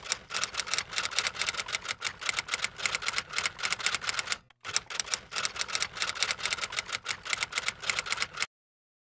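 Typewriter key clacking sound effect: rapid keystrokes in two runs, with a short break about four and a half seconds in, stopping about a second before the end.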